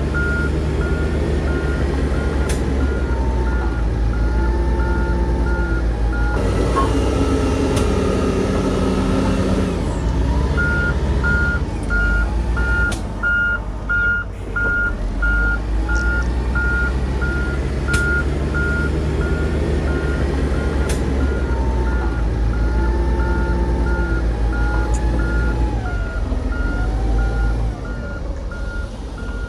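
A heavy machine's reverse alarm beeping at one pitch, about one and a half beeps a second, stopping for about four seconds in the middle and then resuming, over the loud low running of a diesel engine whose pitch rises and falls with the throttle.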